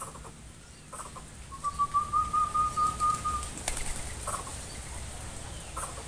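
Small aviary birds calling: short chirps a few times and one long, level whistle held for nearly two seconds, with a run of low thumps in the middle.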